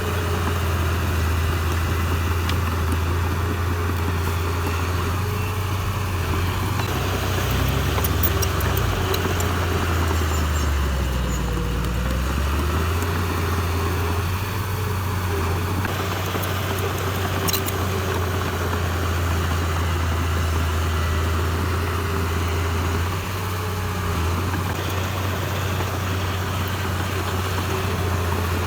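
Heavy diesel engine of construction machinery running steadily with a deep drone. Its pitch sags briefly about eleven seconds in, then comes back up, with a few faint clicks in between.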